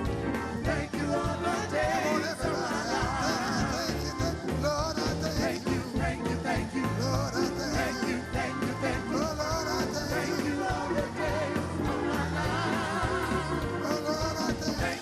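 Lively gospel music: singing over a band with a steady beat and cymbals.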